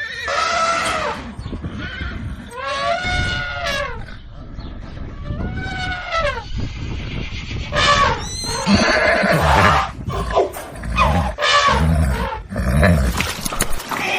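Horses neighing: three long calls, each rising then falling in pitch, then a run of shorter, rougher calls mixed with low thuds.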